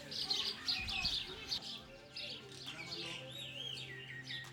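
Several small birds chirping and twittering together, with many quick, overlapping high chirps and short warbling trills.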